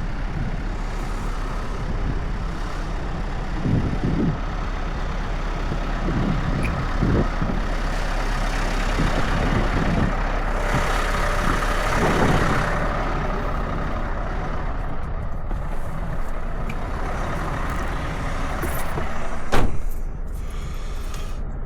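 Scania S580 truck's V8 engine running steadily under way, with a constant low drone of engine and road noise. Around the middle the noise swells for a couple of seconds, and near the end there is one short, sharp, loud sound.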